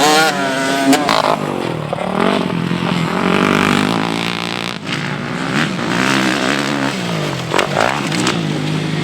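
Several motocross bike engines revving hard and easing off as they race, their pitch rising and falling and overlapping.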